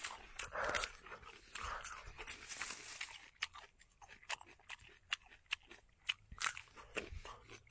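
Biting and chewing a small raw fruit close to the microphone. Noisy mouth and handling sounds come first, then about three seconds in a quick, irregular run of crisp crunching clicks, several a second.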